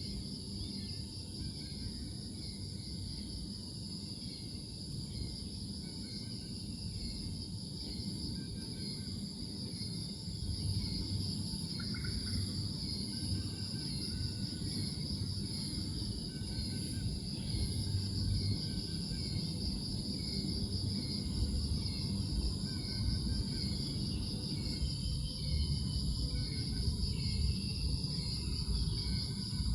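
Insects trilling in a steady, high-pitched chorus, with faint short chirps and a low rumble of outdoor noise underneath.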